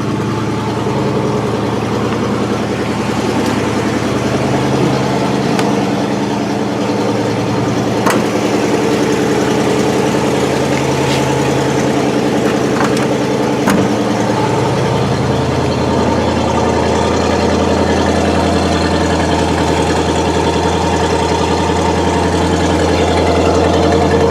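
Buick 350 V8 with a two-barrel carburettor idling steadily, with an exhaust leak at the passenger-side exhaust manifold. A couple of light clicks come near the middle, and the low idle note shifts a little past halfway.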